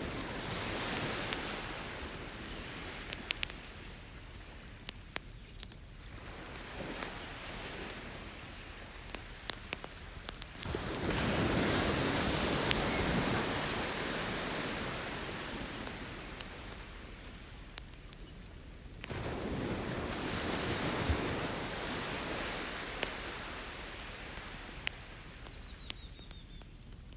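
Ocean waves surging onto the beach in three swells that rise and slowly fade, with a wood campfire crackling in sharp scattered pops throughout.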